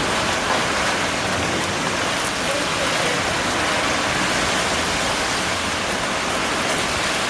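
Light rain driven by strong storm wind, a steady hiss.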